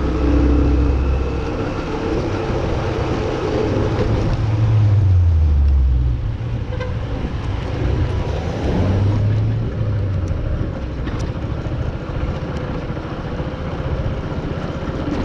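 Street traffic: motor vehicle engines running close by over steady road noise, with a deep engine tone that drops in pitch about five seconds in.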